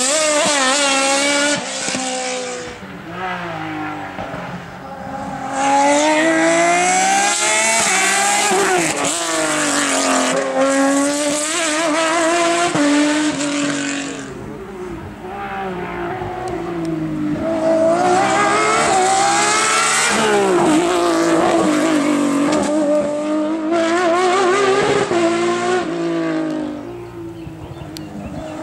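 Racing car engines revving hard as cars pass, the pitch sweeping up and dropping with gear changes and lifts of the throttle. The sound swells loud three times, with quieter lulls between as the cars draw away.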